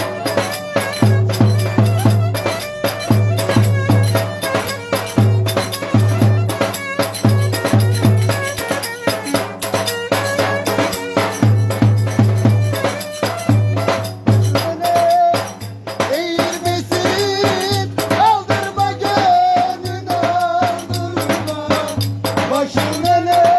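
Live Turkish folk music being played without singing: a fast, dense percussion rhythm over a pulsing low beat, with a melody line that comes forward about two-thirds of the way in.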